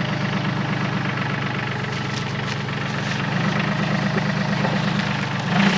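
Yanmar YT235C compact tractor's diesel engine running steadily, getting a little louder past the middle, with a brief louder noise near the end.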